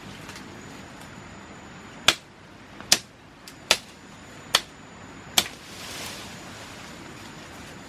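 Five sharp chopping strikes of a knife blade into wood, evenly spaced about one every 0.8 seconds, followed by a short rustle.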